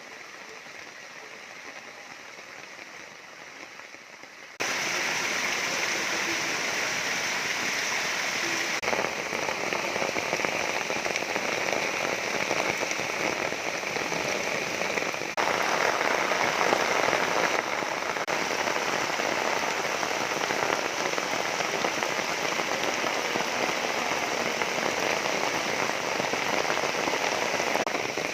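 Waterfall water falling and splashing in a steady rush. It is quieter for the first four and a half seconds, then abruptly louder, with a few sudden shifts in level like cuts between shots.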